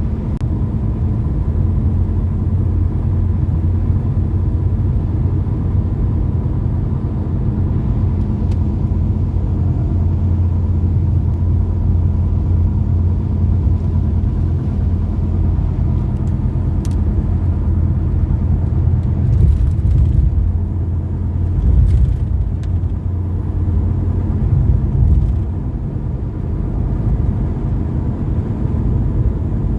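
Steady low rumble with a faint steady hum, swelling a little around two-thirds of the way through.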